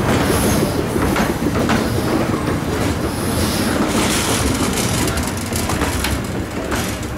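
Carriages of a small-gauge railway train rolling past close by: a continuous rumble with repeated wheel clicks over the rail joints, fading toward the end.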